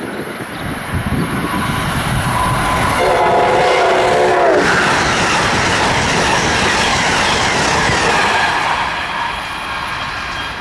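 Passenger train passing at speed: one horn blast of about a second and a half, its chord dropping in pitch at the end as the train goes by, then a loud rush of wheel and rail noise that eases off near the end.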